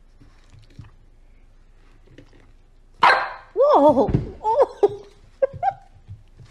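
A puppy barking several times in quick succession, starting about three seconds in.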